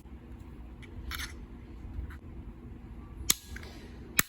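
A replacement multimeter fuse being handled and fitted: light rustling and small taps, then two sharp clicks a little under a second apart near the end.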